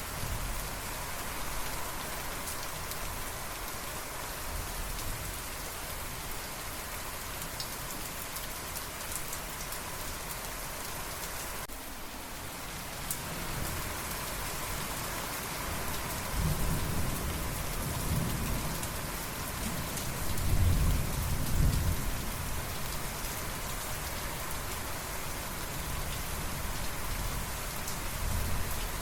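Steady rain falling, with a low rolling rumble of thunder that builds a little past the halfway point, is loudest a few seconds later, then dies away.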